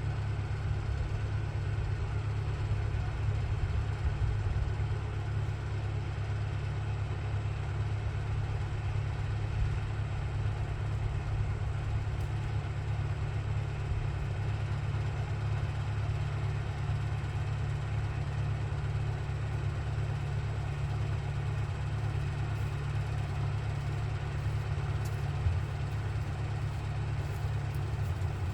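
Old Ford tractor engine running steadily at an even speed, with a constant low drone.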